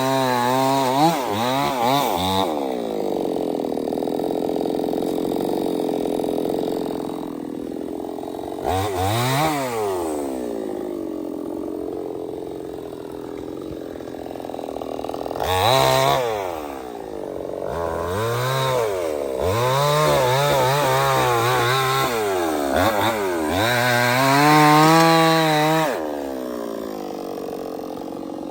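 Stihl 070 two-stroke chainsaw running and cutting teak wood. It is revved up and down again and again, with a steadier stretch under load early on and a run of quick rises and falls in pitch in the second half.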